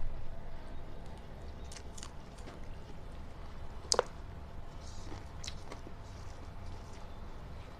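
A person chewing food close to the microphone, with wet mouth sounds and scattered small clicks, and one sharp click about four seconds in.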